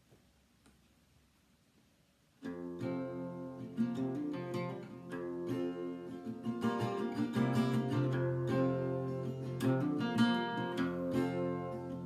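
A brief hush, then an acoustic guitar starts about two and a half seconds in, playing the opening chords of a song's introduction.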